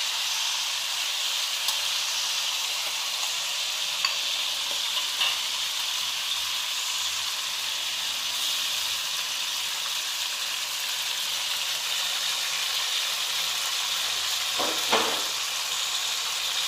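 Blended dried-chili paste frying in hot oil with onion and garlic in a steel wok, a steady sizzle. A few sharp clicks and a louder scrape near the end come from the metal spatula stirring against the wok.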